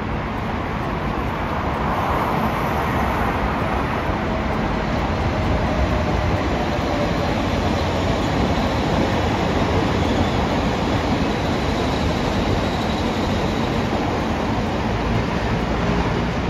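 A train running past on the rails: a steady, loud rush of wheel and rail noise.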